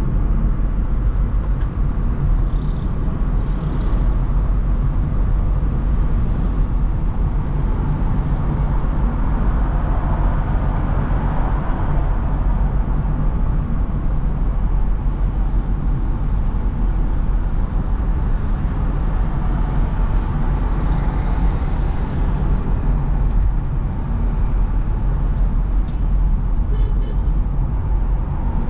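Steady road and traffic noise of a car driving along a city road, with a constant low rumble.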